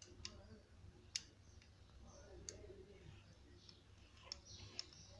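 Faint, scattered sharp clicks, about half a dozen at irregular intervals, over quiet room tone.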